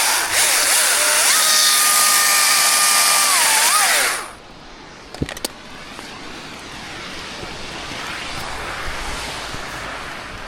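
Chainsaw run at full throttle for about four seconds, its pitch climbing to a steady high whine and then dropping off abruptly; a quieter steady noise follows.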